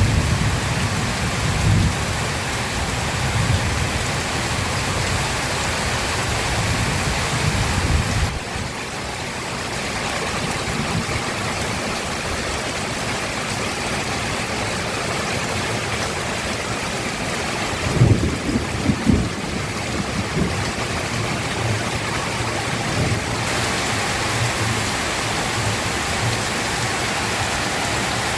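Heavy rain pouring steadily, with thunder rumbling low over the first several seconds and dying away about eight seconds in, then another short crack and rumble of thunder a little past halfway.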